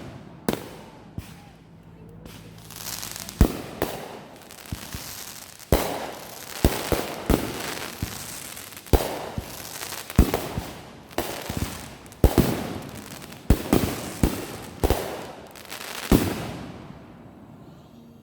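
Consumer fireworks going off: a quick, irregular series of loud bangs with crackling between them, dying away a couple of seconds before the end.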